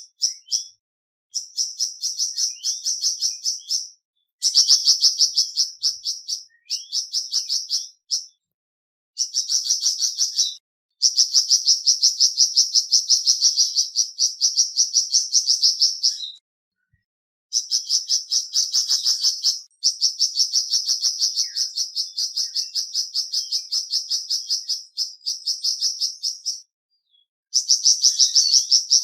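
Flamboyan songbird singing in rapid-fire phrases of quick, high, repeated chipping notes, about five a second. The phrases last from one to several seconds and are separated by short silences.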